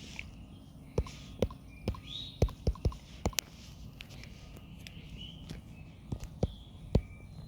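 Irregular sharp clicks and knocks, about a dozen, clustered in the first half and again near the end, over a low steady background with a few faint, short high chirps.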